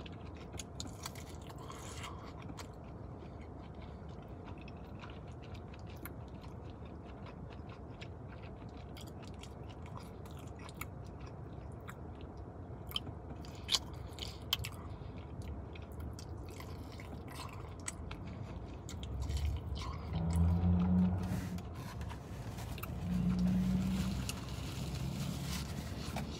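A person chewing and biting into crispy sauced chicken wings, with many small wet clicks and crunches. Twice near the end comes a loud, low hum from the eater.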